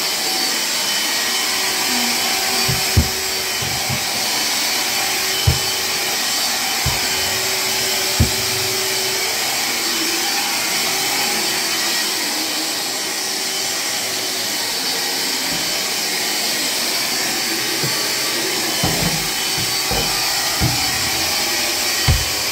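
Battery-powered cordless vacuum cleaner running steadily, with a high whine over its motor and airflow noise. A few short knocks sound now and then, more of them near the end.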